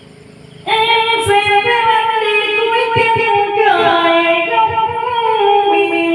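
A voice singing a slow melody in long, held notes that step downward in pitch, starting about half a second in, with music behind it.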